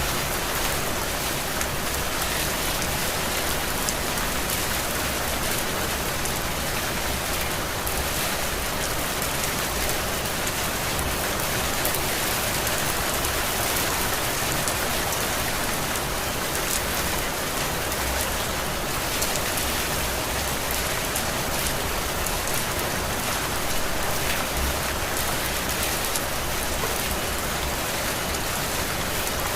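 Heavy rain falling steadily on surfaces, a dense, even hiss of drops without pause.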